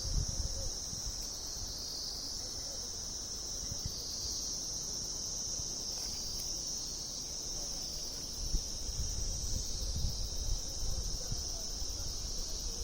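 Steady high-pitched insect chorus running without a break, with wind rumbling on the microphone near the start and again in the last few seconds.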